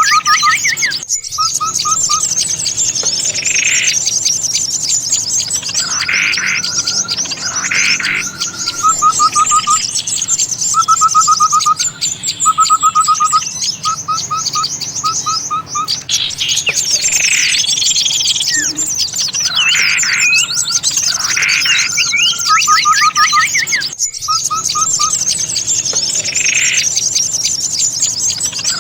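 Bird-trapping lure recording: many small songbirds chattering and calling at once, with a continuous high twittering, rows of short rapid trills and louder repeated whistled calls. There is a brief cut-out about a second in and another near the end, where the looped recording starts over.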